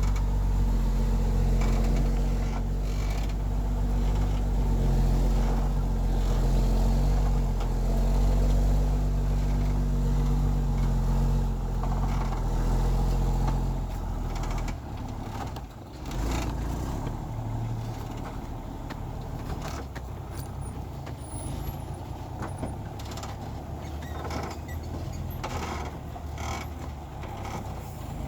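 A heavy timber truck's diesel engine runs hard at steady revs, then eases off to a lower, quieter run about halfway through. Scattered knocks and clanks come through in the second half.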